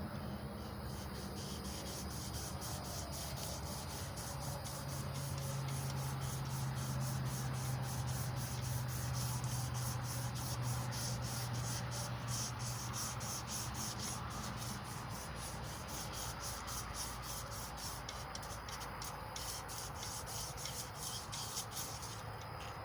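Emery cloth rubbed back and forth around a small block Chevy 350 crankshaft journal to polish it, in quick, even scratchy strokes.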